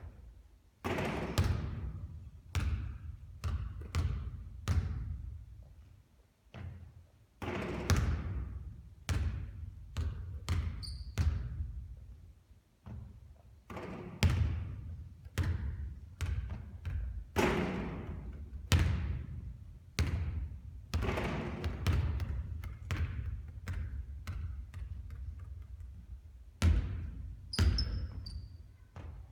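Basketballs bouncing on a hard court during three-point shooting practice: a run of sharp thuds, roughly one every second or two, each with a short ringing tail. A couple of brief high squeaks come about a third of the way in and near the end.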